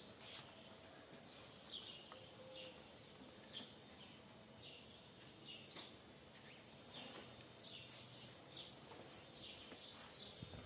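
Faint, high bird chirps repeating irregularly, each a short falling note, over quiet outdoor background.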